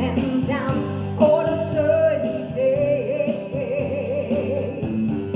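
Music: a band playing steady chords under a held, wavering melodic line with vibrato, likely a wordless sung note.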